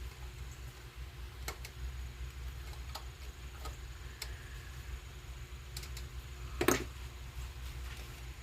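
Scattered light clicks and ticks of a screw being turned by hand with a flathead screwdriver into a pine knob, with one louder knock near the end, over a low steady rumble.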